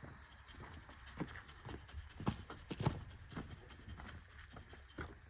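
About seven irregular light knocks and clinks, as of metal tools and parts being handled.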